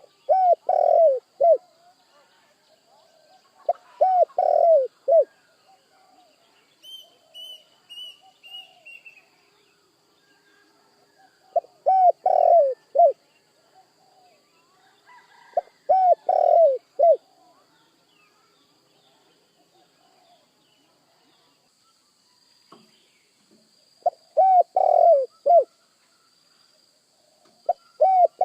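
Spotted dove (tekukur) cooing: short phrases of three or four low, falling coo notes, repeated every few seconds with some longer pauses between.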